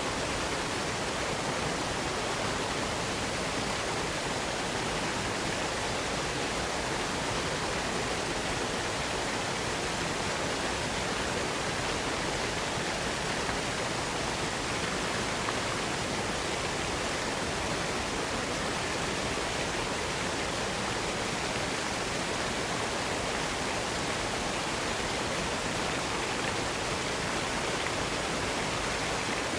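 Waterfall: a steady, unbroken rush of falling water, even from deep to high pitches with no separate splashes or other events.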